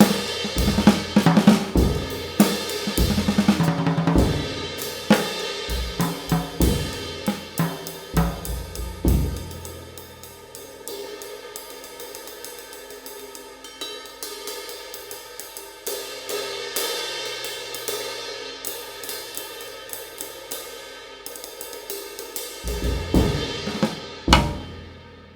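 Handmade 20-inch extra-light B20 bronze ride cymbal played with a drum-kit groove for the first ten seconds. Then the ride is played alone, its strokes washing into a long shimmer. A short drum burst and a final loud hit near the end ring out and fade.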